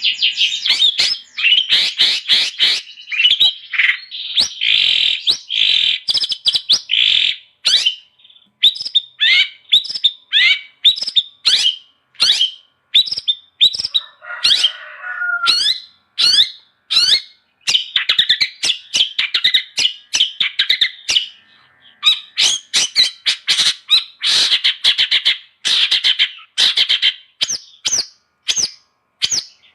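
Long-tailed shrike (cendet) singing hard: a fast, continuous run of sharp chirps and harsh, scratchy notes, broken by a few brief pauses.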